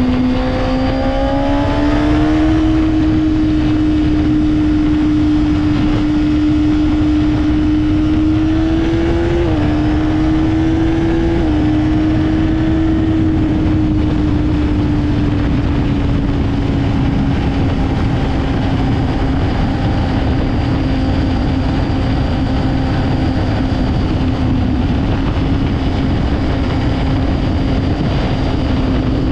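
Honda CBR600RR's inline-four engine running at a steady high pitch. The pitch rises about two seconds in, jumps and drops twice near the middle, then slowly eases back down, with a steady rushing noise underneath.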